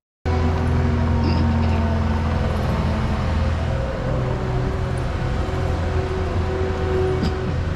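Steady low engine hum with road traffic noise, starting abruptly a moment in and running evenly.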